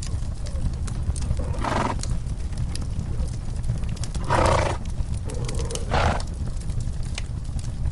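Horses in a stall blowing out breathily three times, with scattered small crackles of a wood fire and a steady low rumble beneath.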